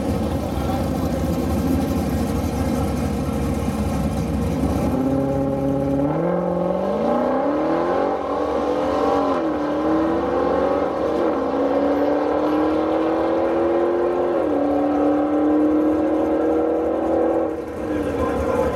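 Two Dodge Challengers launching off the drag-strip start line and accelerating hard down the quarter mile, after a few seconds of loud low rumble. The engine pitch climbs and drops back at each upshift, about four times.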